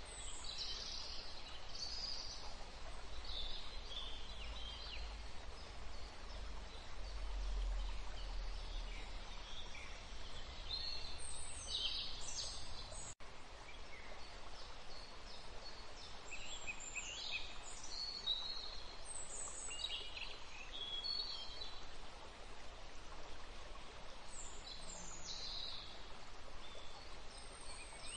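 Birds chirping, many short high falling calls scattered over a steady background hiss, with a brief dropout about halfway through.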